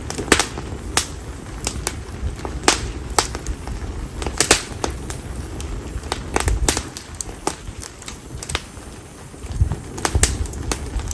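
Bonfire of split konara oak (Quercus serrata) firewood crackling: irregular sharp pops, several every couple of seconds and some in quick pairs, over the low rumble of the flames.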